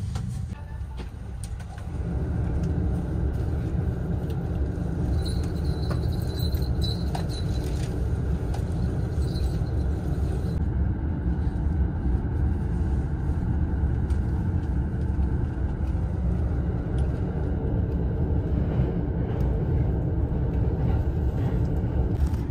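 Steady low rumble of a commuter train running, heard from inside a passenger car. It grows louder about two seconds in.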